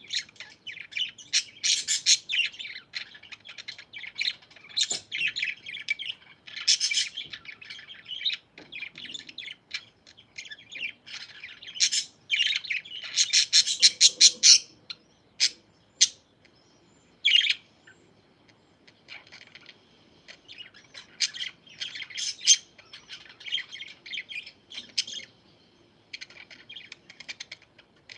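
Pet parakeets chirping and chattering in quick, overlapping runs of short calls, with brief lulls.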